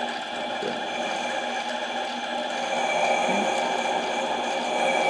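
Harbor Freight mini lathe running, a steady whine of motor and gears with several high tones held throughout, growing slightly louder near the end.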